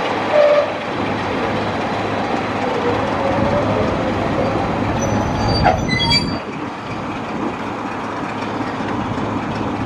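Diesel-hauled heritage train running on the rails with a steady rumble and engine drone. The wheels squeal briefly about five to six seconds in.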